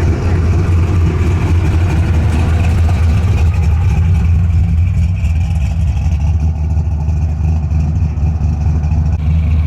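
A car engine running steadily at low revs, loud and close, with a deep, even tone.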